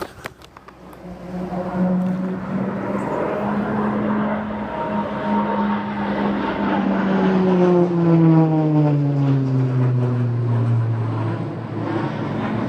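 Beechcraft Texan II turboprop trainer making a low-level pass. The drone of its propeller and engine builds over the first two seconds and is loudest about eight seconds in, then drops steadily in pitch as the aircraft passes and moves away.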